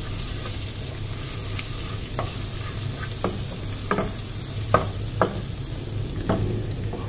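Chopped garlic and onions frying with a steady sizzle in hot oil in an aluminium pot. A wooden spoon stirs them, knocking against the pot about seven times at irregular intervals from about two seconds in.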